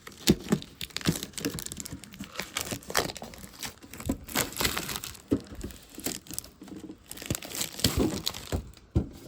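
Plastic trading-card packaging crinkling and tearing as it is pulled open, a dense run of irregular crackles.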